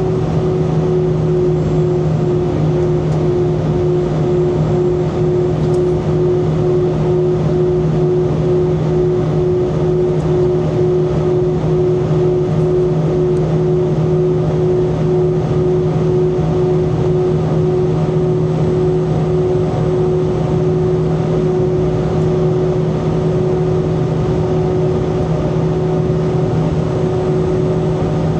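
Steady jet engine drone and airflow noise inside the cabin of an Airbus A320, with several steady hums layered over the noise.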